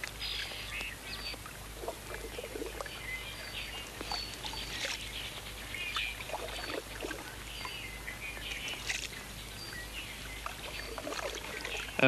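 Birds chirping: short high chirps every second or so, with scattered soft clicks over a faint hiss.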